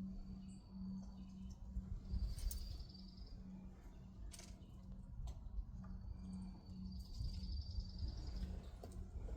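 A high, rapid trill, each about a second or two long, repeated three times, over a low pulsing hum, with a few sharp clicks about two and a half and four and a half seconds in.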